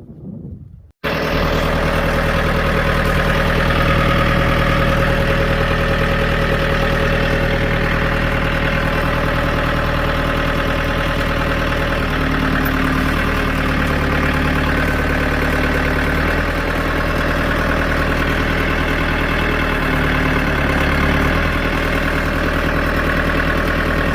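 John Deere tractor's diesel engine running steadily, cutting in abruptly about a second in, with small shifts in its tone partway through.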